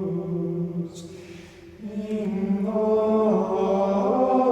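Voices singing liturgical chant in long held notes, breaking off briefly about a second in with a breath, then coming back louder.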